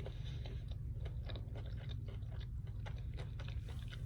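Close-miked chewing of food, many small wet mouth clicks over a steady low hum.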